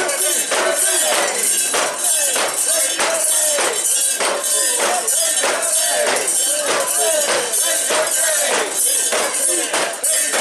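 Crowd of mikoshi bearers chanting together in rhythm as they carry the portable shrine, with the shrine's metal fittings clanking and jingling on each beat, about two beats a second.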